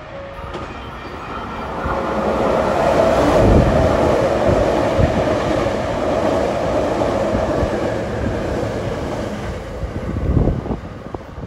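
Hankyu Kyoto Line electric train running through the station without stopping, close past the platform. The rumble and rush build over the first few seconds, peak about three and a half seconds in, hold while the cars go by, then fade, with a last short surge near the end as the rear of the train passes.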